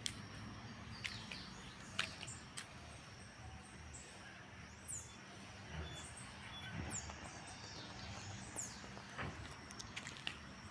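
Birds calling with a few short, high chirps over a steady low hum, with scattered sharp clicks.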